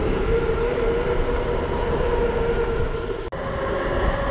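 Wind rushing over a bike-mounted camera microphone during a fast bicycle descent, a heavy low rumble, with a steady whine that creeps slightly upward in pitch. The sound cuts out for an instant about three seconds in.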